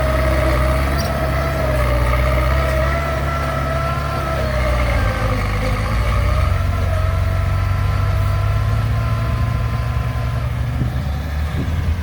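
Heavy diesel engine of an excavator running steadily, with a whine above it that wavers slightly in pitch; the engine note shifts a little about five seconds in.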